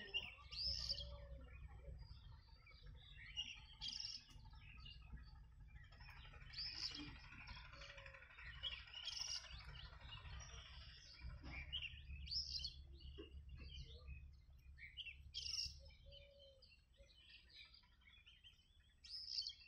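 Small birds chirping faintly in short, high calls every few seconds, over a low steady rumble.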